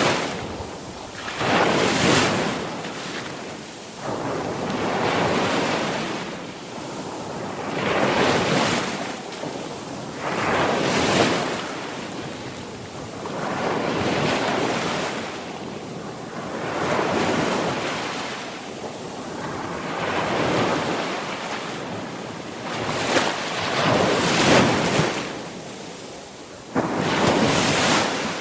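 Sea waves breaking and washing up a shore, a new swell of surf about every three seconds.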